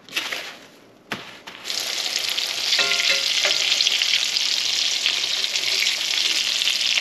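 Breaded goose breast pieces sizzling steadily in hot bacon grease in a cast-iron skillet as tongs turn them. The sizzle starts about a second and a half in; before it come a few rustling crunches of the pieces being pressed into a dry oat-and-grits breading.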